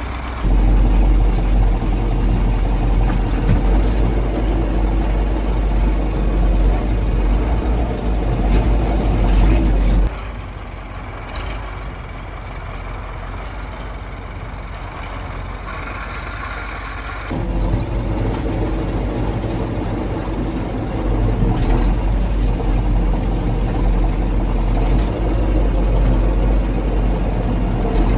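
The V8 diesel engine of a 1985 KAMAZ 4310 6x6 military truck running under load as it drives, a steady heavy low rumble. About ten seconds in it drops abruptly quieter and duller, and it comes back to full level about seven seconds later.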